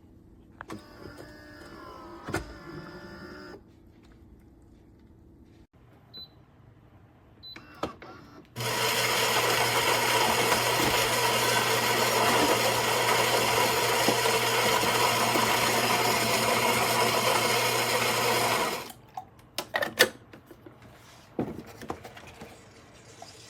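Philips 3200 Series fully automatic coffee machine running loudly and steadily for about ten seconds, a motor sound with a low hum, starting and stopping abruptly, followed by a few sharp clicks and clatters.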